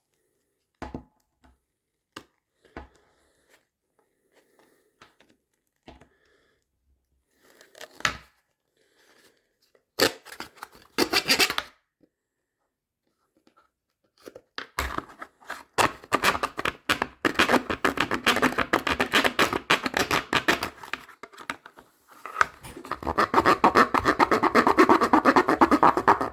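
Knife blade sawing back and forth through a carry case to widen a cutout: scattered clicks and short scrapes at first, then about two-thirds of the way in a long run of fast scraping strokes that grows denser and louder near the end.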